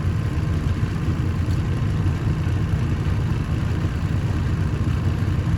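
A steady low mechanical rumble that does not change. It is not the inducer motor, which is stalled and silent.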